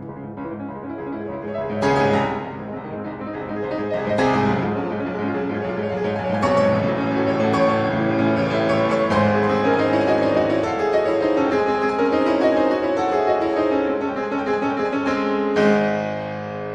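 Piano music with flowing runs of notes rising and falling, and heavier struck chords about two, four and fifteen seconds in.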